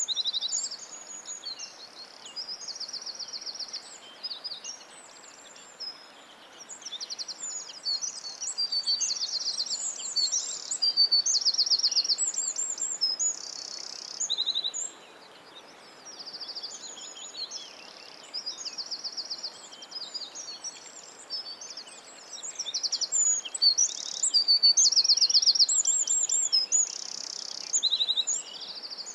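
Several songbirds singing and chirping over one another, with fast trills of rapidly repeated high notes, over a steady faint background hiss.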